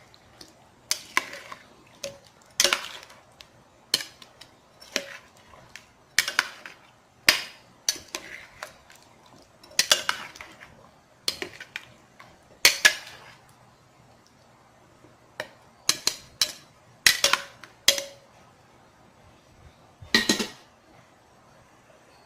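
A metal spoon or ladle stirring chicken pieces in tomato sauce in a cooking pot, knocking and scraping against the pot at irregular intervals about once a second.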